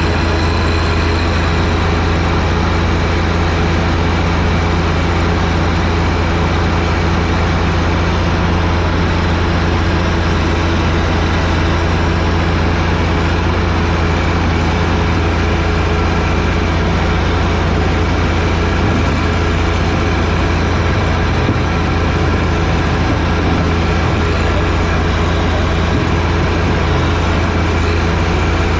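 John Deere 1025R sub-compact tractor's three-cylinder diesel engine running steadily at a constant speed.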